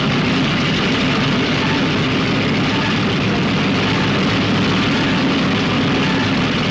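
Piston engines of a bomber running steadily in flight: a loud, even drone with a low hum beneath it.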